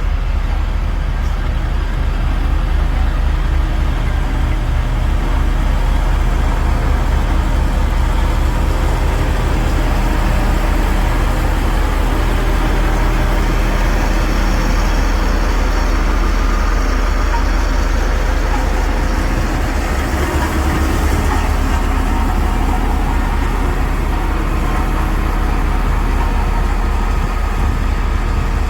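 Diesel engine of a heavy earthmoving machine running steadily under a continuous low rumble.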